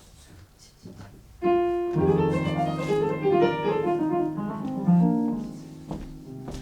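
Piano music: after a quiet first second and a half, a piano comes in with a held chord and then a flurry of quick notes over sustained low notes, dying down near the end.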